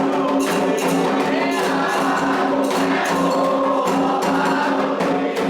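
Candomblé ritual music: fast, steady percussion with group singing of a chant.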